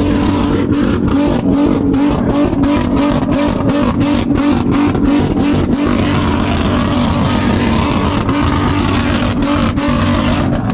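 Car engine running hard at high revs. Over the first half the sound cuts in and out about three times a second, then it holds steady.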